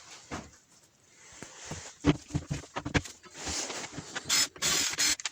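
Angle grinder being handled and taken apart by hand: a run of separate clicks and knocks, then louder scraping and rattling bursts from about three and a half seconds in.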